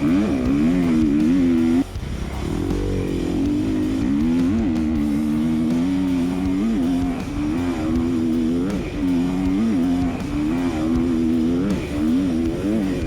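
Motocross dirt bike engine revving hard under racing throttle. Its pitch holds high, then dips and climbs again and again with throttle and gear changes. The sound changes abruptly about two seconds in.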